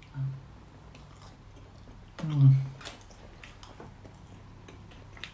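A man chewing a mouthful of naan and slow-cooked goat, with faint wet mouth clicks, and a short hummed vocal sound a little over two seconds in.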